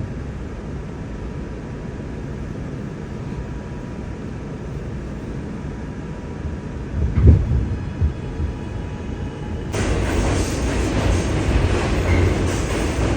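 New York City subway train running, heard from inside the car: a steady low rumble, with a couple of heavy thumps about seven and eight seconds in. About ten seconds in, the noise turns suddenly louder and hissier.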